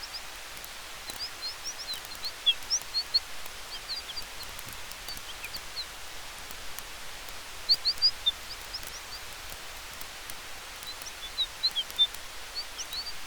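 Soft, steady hiss of wind through forest trees with a faintly crackling campfire, and clusters of short, high bird chirps that come and go, the loudest about two seconds in, near eight seconds and near twelve seconds.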